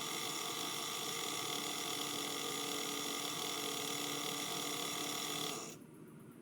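An electric motor running with a steady, even whine, then cutting off suddenly a little over five seconds in.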